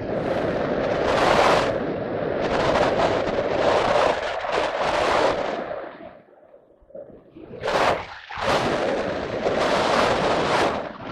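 Wind buffeting the microphone in strong, uneven gusts, with a lull about six seconds in before it picks up again.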